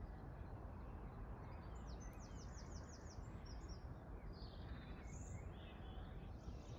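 Songbirds singing: a quick run of repeated high notes about two seconds in, then scattered chirps, over a faint, steady, low background noise.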